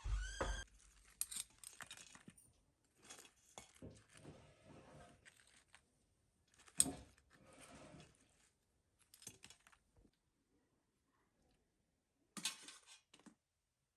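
Irregular light clinks and knocks, like small hard objects being handled and set down. The sharpest knock comes about halfway through, and a short cluster of clinks follows near the end.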